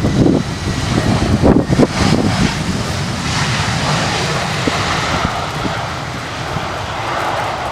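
Jet airliner's engines, a broad steady rush that builds about three seconds in, with gusts of wind buffeting the microphone at the start.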